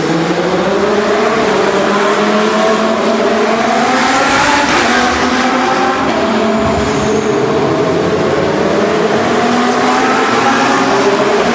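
Several Lamborghini Super Trofeo race cars' V10 engines at high revs, their pitch climbing again and again as they accelerate through the gears. The sound swells loudest about four to five seconds in.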